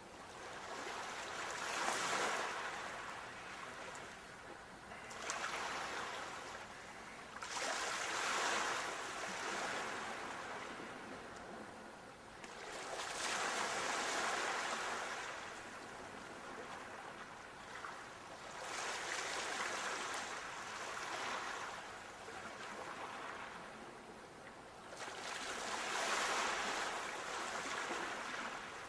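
Sea waves breaking on a shore: six surges of surf, each swelling up and washing away, a few seconds apart.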